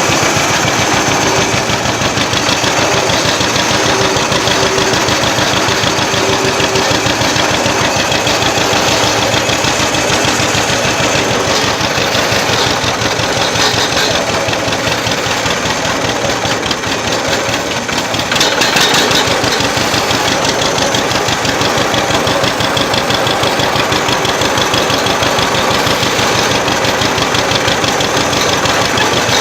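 Old tractor engine running steadily close by, its firing beat regular throughout; the note dips briefly and picks up again a little past halfway.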